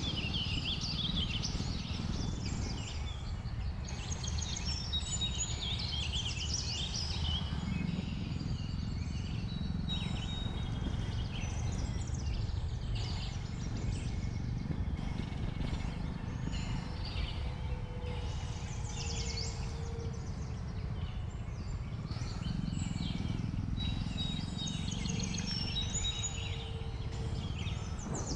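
Many birds chirping and calling from the forest over the steady low rumble of a Jawa 42 motorcycle and wind as it rides downhill.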